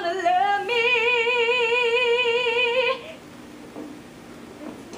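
A young woman singing solo, holding one long final note with wide vibrato that ends about three seconds in, followed by low background noise.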